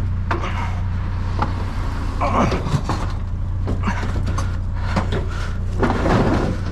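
Pickup truck engine idling steadily, with bursts of clattering, scraping knocks of metal being wrestled about, mostly about two seconds in and again near the end.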